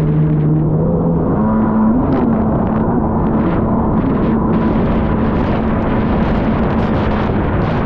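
Kawasaki SXR800 stand-up jet ski's two-stroke twin engine running hard at race speed, its pitch stepping up about a second and a half in and then holding steady, with the rush and hiss of water spray throughout.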